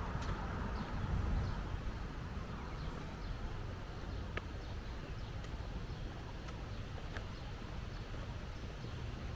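Outdoor ambience: a steady low rumble with a few brief bird chirps.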